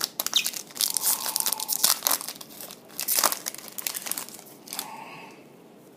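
Crinkly trading-card pack wrappers being torn open and crumpled while cards are handled, a dense run of crackles and sharp clicks that dies away about five seconds in.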